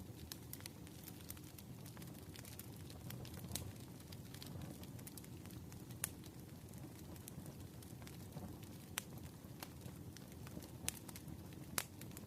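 Crackling fire ambience: irregular sharp pops and snaps scattered over a faint, steady low rush.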